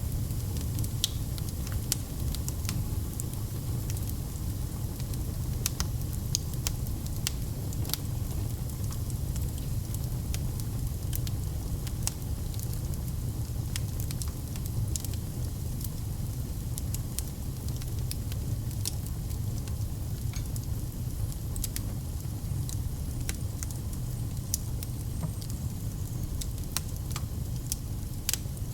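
Fire burning in a fireplace: irregular crackles and pops, several a second, over a steady low rumble of flame.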